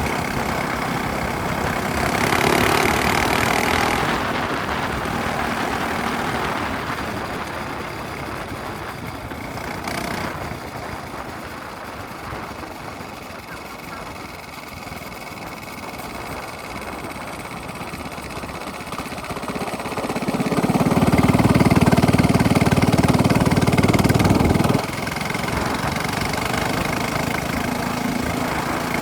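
Small minibike engine with a straight-pipe exhaust running as it is ridden. It fades for a while through the middle, comes back loudest about three-quarters through, then drops off suddenly.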